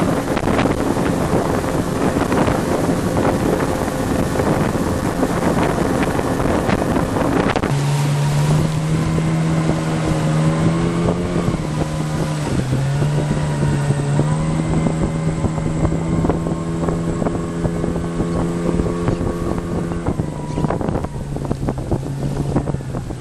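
An engine running under way, with wind rushing over the microphone; about eight seconds in, a steady engine hum comes to the fore, its pitch dipping briefly and recovering a few seconds later.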